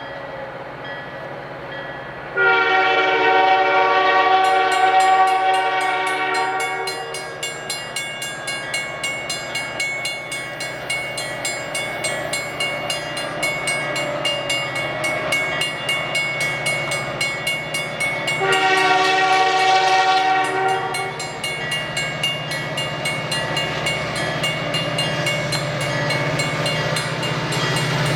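Horn of a CN SD40-2(W) diesel locomotive sounding a long chord blast about two seconds in and a shorter blast past the middle. Between the blasts the locomotive's engine drones and the wheels click rhythmically over the rail about twice a second, growing louder as the train approaches.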